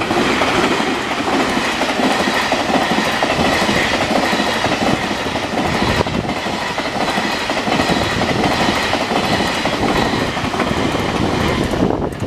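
A train passing at close range, its wheels clacking steadily over the rail joints in a dense, continuous rush of rolling noise.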